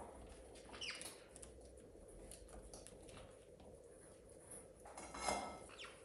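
Faint scattered clicks and scratches, with a short falling chirp about a second in and a brief, louder bird squawk with rustling about five seconds in.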